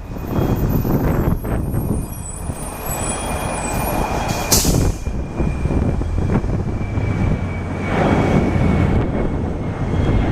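Jet engines of a Boeing 767-300F freighter running at takeoff power: a rumble with a thin, steady high whine, with gusts of wind on the microphone. A short burst of hiss about four and a half seconds in.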